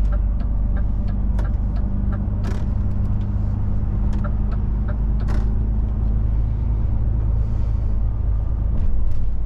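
DAF truck's diesel engine running steadily as it drives, heard from inside the cab as a continuous low drone. Short light clicks are scattered through it.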